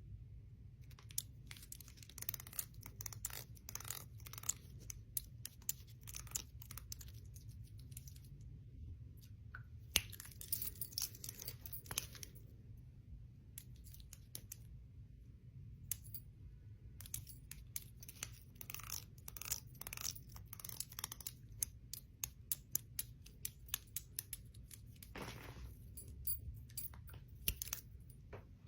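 Bangles and rings clicking and clinking against each other in quick, irregular clusters of sharp clicks, over a low steady hum.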